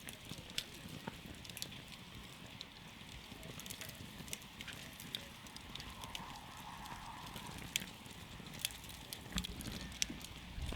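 Campfire burning: a steady low rumble of flames with frequent irregular sharp crackles and pops, a few louder pops in the second half.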